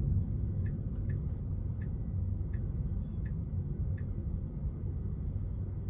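Car turn-signal indicator ticking steadily, about three ticks every two seconds, over a low steady rumble of cabin and road noise in a Tesla Model 3.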